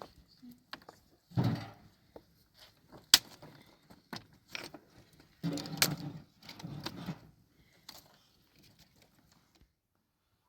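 Irregular knocks and clatter of hard objects, like stones and tools being handled, with a few scraping stretches and one sharp strike about three seconds in; it goes quiet near the end.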